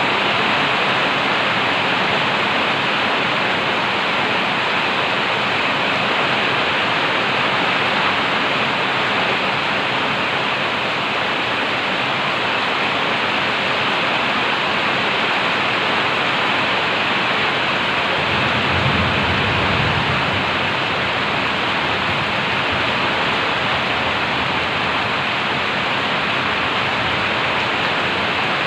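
Heavy tropical downpour: a steady, loud hiss of rain. A brief low rumble about two-thirds of the way through.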